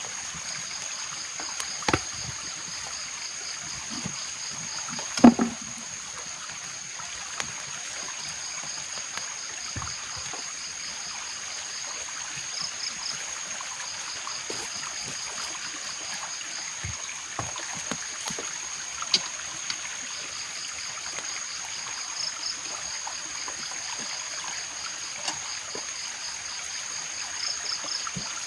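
Steady rush of rain and running water, with a constant high whine and a pulsing high chirp above it. A few sharp knocks break through, the loudest about five seconds in.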